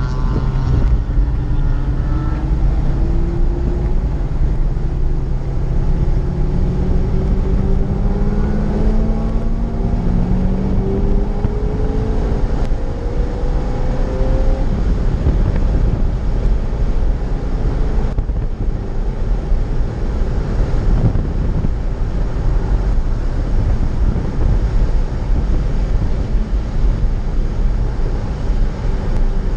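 Corvette Z06's V8 accelerating, its note rising slowly in pitch over roughly the first half. It then sinks under a steady roar of wind and road noise on the helmet microphone at speed in the rain.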